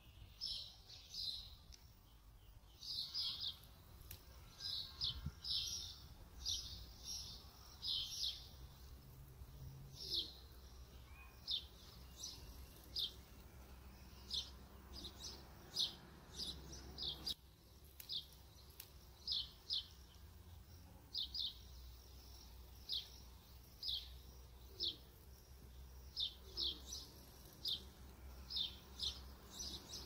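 Birds chirping: short, high notes repeated about one or two a second throughout.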